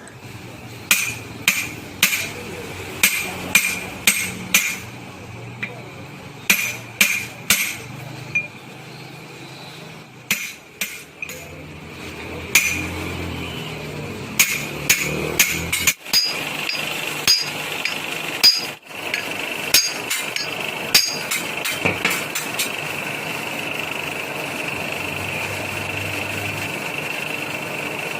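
Hammer striking metal again and again, the blows coming in quick groups of two to four, each with a short metallic ring. From about halfway through, a steady hum runs underneath the blows. The hammering stops a few seconds before the end, leaving the hum on its own.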